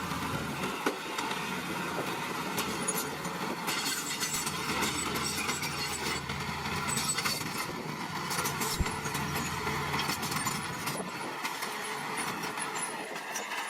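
Small bulldozer working: its diesel engine runs steadily under many short clanks and clicks from the tracks and blade moving stone.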